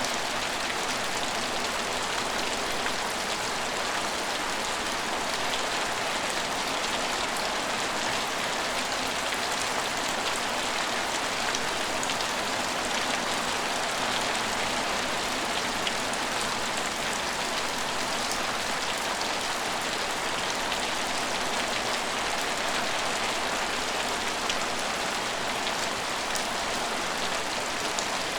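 Steady rain falling on hard surfaces, an even hiss with many small drop ticks.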